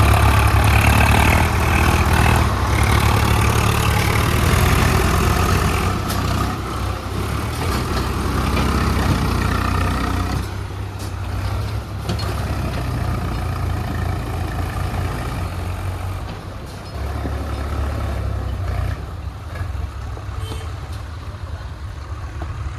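Swaraj tractor's diesel engine running hard under load, hauling a loaded trolley through mud. It is loudest over the first ten seconds or so, then eases to a lower, steadier note.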